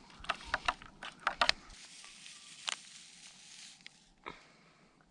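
Someone eating noisily, with a quick run of wet chewing and smacking clicks in the first couple of seconds and a few single smacks after that. A soft hiss runs through the middle.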